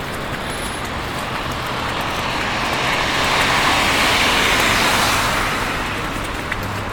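A car passing on the street, its noise swelling to a peak in the middle and fading away, over a steady background of city traffic.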